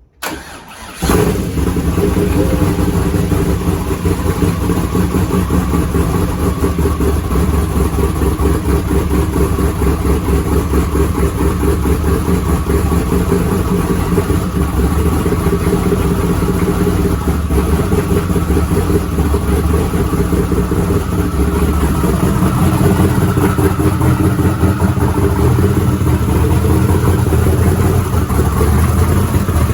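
Twin-turbo LSX 427 V8 in a 1979 Pontiac Trans Am cranking briefly on the starter, catching about a second in and then idling steadily, with only part of its exhaust fitted.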